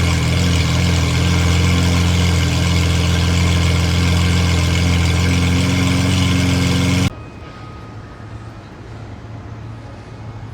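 Lamborghini Aventador's V12 idling steadily and loudly through a straight-piped Fi Exhaust. It cuts off suddenly about seven seconds in, leaving a faint low hum.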